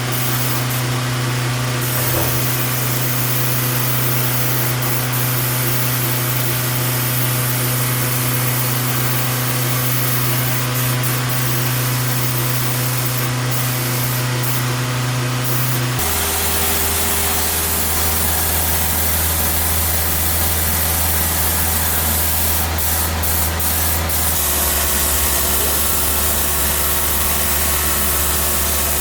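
A machine running steadily, a strong low hum over a constant hiss; the hum drops lower abruptly about halfway through and shifts again near the end.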